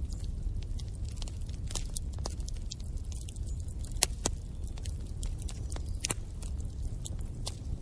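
Wood fire in a fireplace crackling: irregular sharp pops and snaps over a low, steady rumble of the flames, the loudest pop about four seconds in.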